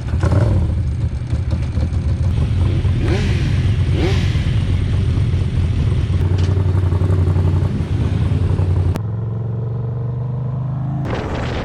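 Motorcycle engine running at a steady pitch, with a rush of noise over it. About nine seconds in, the sound turns duller, and music comes in just before the end.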